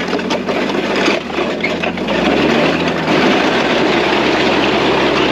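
Vehicle engine running steadily with rattles, its low note dropping about two seconds in.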